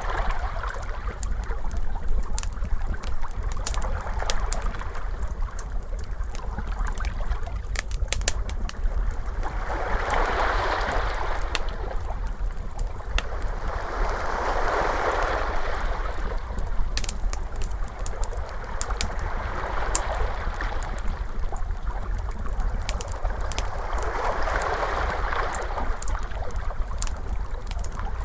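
Crackling wood fire with frequent sharp pops over a low rumble, mixed with ocean waves washing in and out every few seconds.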